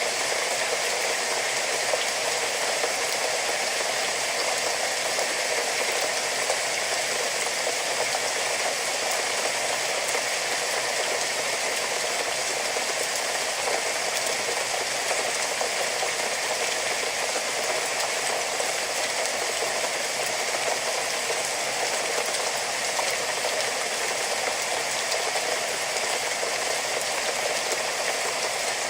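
Steady rain falling, a dense even patter and hiss with no let-up.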